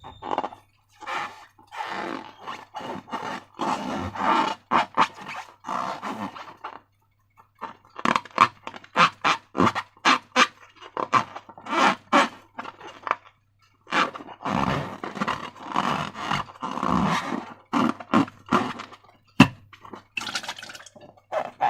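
Slime being squished and worked by hand: sticky squelches and wet clicks in quick, irregular bursts, with two short pauses.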